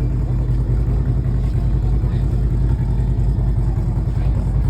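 Harley-Davidson Sportster Seventy-Two's air-cooled 1200 cc V-twin idling steadily.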